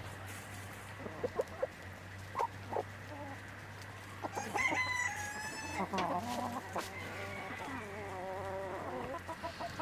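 Chickens clucking, with short scattered calls early on and a rooster crowing in longer drawn-out calls through the second half.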